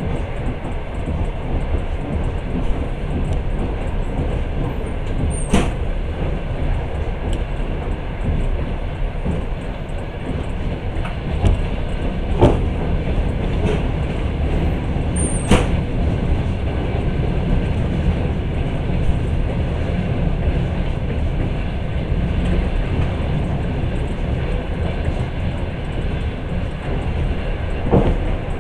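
Passenger train running along the track: a steady rumble of wheels on rail, with four sharp clicks scattered through it.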